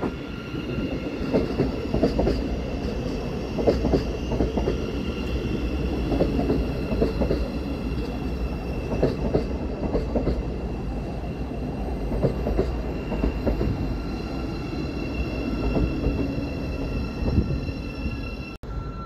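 Six-coach Great Northern Class 717 electric train running along the platform: a steady rumble with a clatter of wheels knocking over rail joints and a faint steady whine above it.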